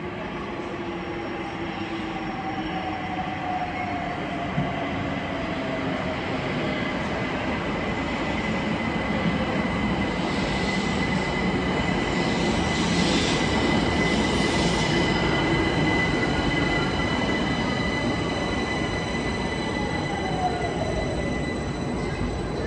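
London Overground Class 378 Electrostar electric multiple unit arriving and braking into the platform, growing louder as it approaches and passes about halfway through. Its traction motor whine falls in pitch as it slows, and a steady high squeal runs through the middle.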